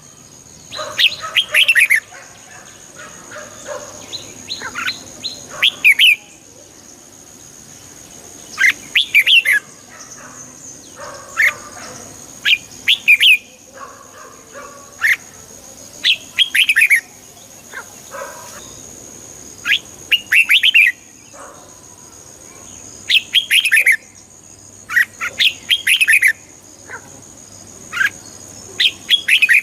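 Red-whiskered bulbul singing: short, bubbly phrases of quick chirping notes, one phrase every two to three seconds. A faint steady high-pitched tone runs underneath.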